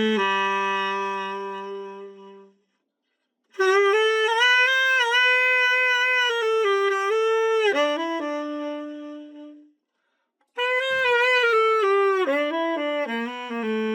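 Selmer Mark VII tenor saxophone played in three short melodic phrases, each ending on a held note with a brief silence between them, as a play test after its full overhaul.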